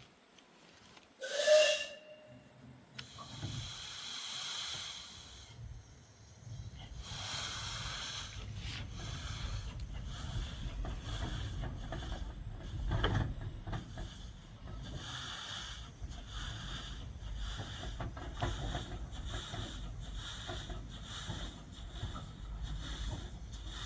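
Steam locomotive: a short whistle blast about a second and a half in, then bursts of hissing steam, then exhaust chuffs in a steady rhythm from about ten seconds in as it gets under way.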